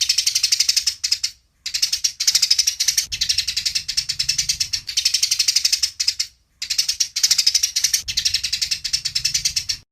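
Eurasian tree sparrows chattering in fast, harsh runs of chirps, the agitated calls of sparrows fighting. The chatter comes in three bursts, broken twice by brief pauses.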